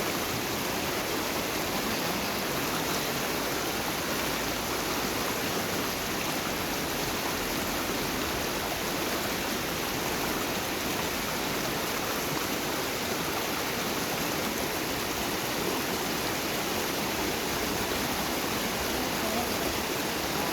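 Water of a small river flowing, a steady rushing with no breaks.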